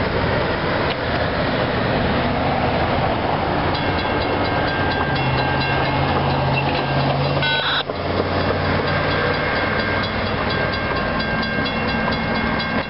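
Freight train cars rolling past on the rails, joined a few seconds in by a grade-crossing signal bell ringing in quick, even strikes. The bell keeps ringing after a brief break near the middle.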